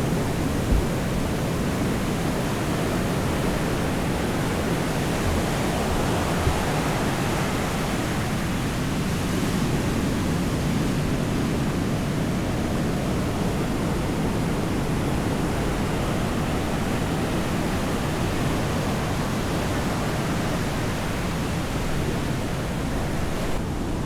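Steady rushing noise of sea surf washing on a sandy beach, even and unbroken, with a couple of small knocks in the first few seconds.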